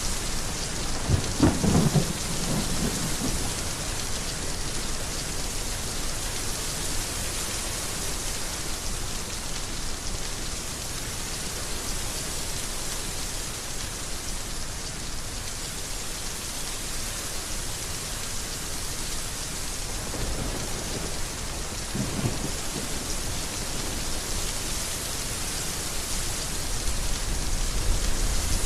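Heavy rain falling steadily, with low rumbles of thunder about a second in and again about two-thirds of the way through.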